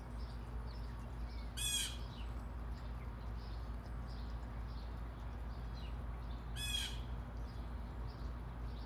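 Red-bellied woodpecker giving two short, harsh rolling calls about five seconds apart. Faint chirps of other birds and a steady low hum sit underneath.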